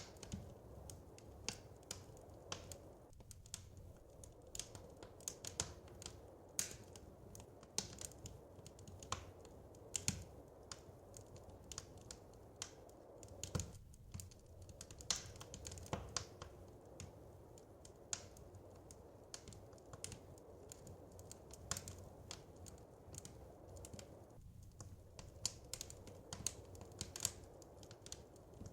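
Wood fire crackling: irregular sharp pops and snaps, several a second and uneven in strength, over a steady low rumble.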